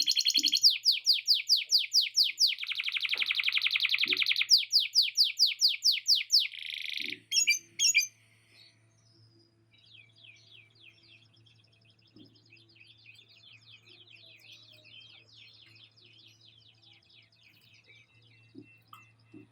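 Male canary singing loud, fast runs of repeated high notes and trills, breaking off about eight seconds in; only faint twittering follows.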